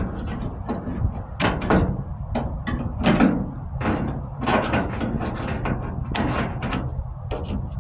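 Hand tools clanking and knocking together in irregular short clatters as aviation snips are searched for among them.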